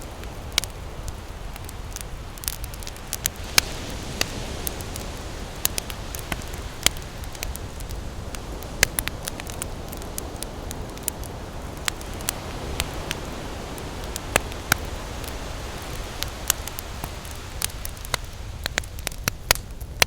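Wood campfire crackling, with many irregular sharp pops and snaps, over a steady low wash of ocean waves.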